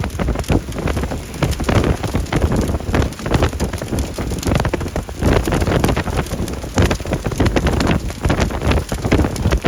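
Hail and rain pelting down in strong, gusty wind: a dense, continuous rattle of many small impacts over heavy wind buffeting on the microphone.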